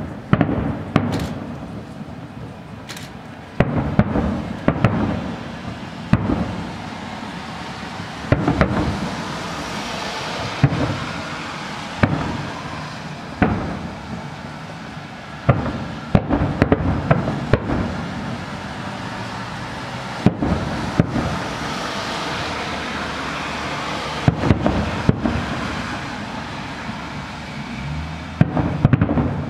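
Fireworks display: aerial shells bursting in a long run of loud bangs, some in quick clusters, over a continuous noisy haze between the bangs.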